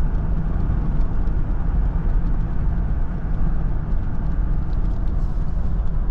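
A car being driven along a road: steady engine and tyre noise, heaviest in the low rumble.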